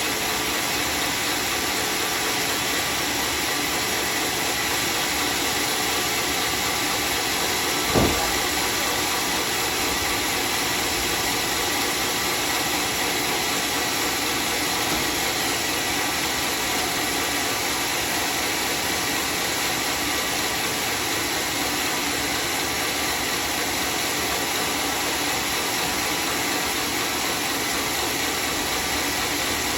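Homemade sawmill's circular saw running with a steady noise, broken by one sharp knock about eight seconds in.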